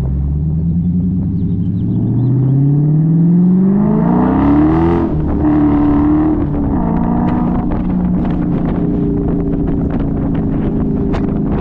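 Dodge Challenger's engine and exhaust under hard acceleration. The engine note rises steadily for about five seconds, drops at an upshift, drops again at a second shift about a second and a half later, then settles to a steady cruising note.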